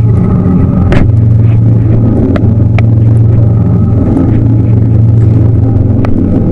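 Tour boat's engine running at a steady speed, a loud low drone heard from on board. A few sharp clicks sound over it.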